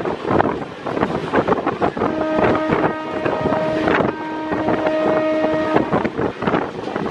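Wind rushing over the microphone with the running clatter of a MEMU electric train at speed. About two seconds in, a steady humming tone joins for nearly four seconds, with a brief break in the middle.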